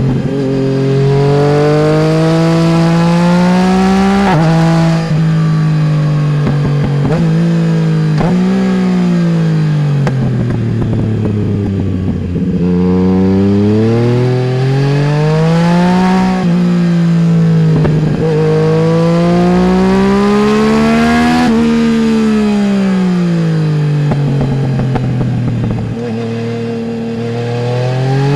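Yamaha Tracer 900 GT's three-cylinder engine through a full Roads Italia aftermarket exhaust, heard from under the passenger seat. The engine revs up and drops sharply at each gear change, then winds down slowly as the throttle is rolled off, twice, before pulling up again.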